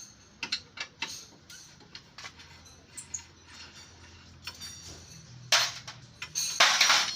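Hand tools and metal body parts clicking and knocking during the dismantling of a crash-damaged car's front end, with two louder, longer rasping bursts near the end.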